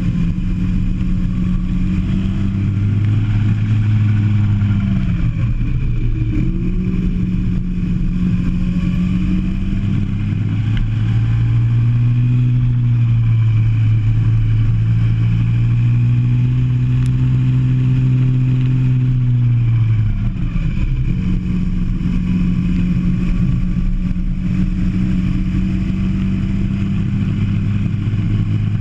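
Go-kart engine heard onboard, running hard at a steady pitch that drops sharply twice as the kart slows and then climbs back up as it accelerates again.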